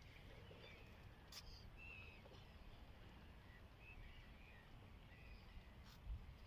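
Near silence with faint, short bird chirps scattered every second or so, and a soft click about a second and a half in.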